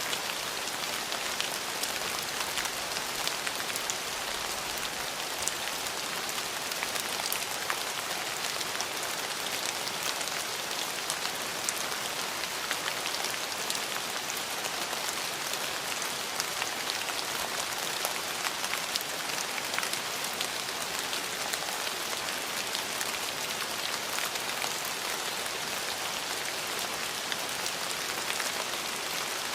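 Steady rain falling on hard surfaces: an even hiss with many close individual drop ticks and no let-up.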